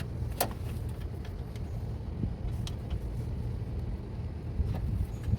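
Light metallic clicks from steel nuts and tools being handled while nuts are threaded onto transmission mounting bolts, over a steady low background rumble.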